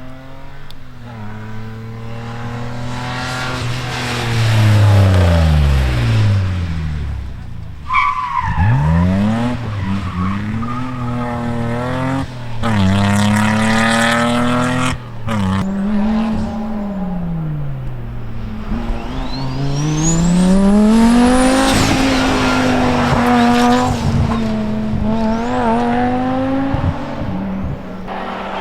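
Rally car engines driven hard at speed, revving up through gear changes and then falling in pitch as the cars go by, with a high rising whine in the middle.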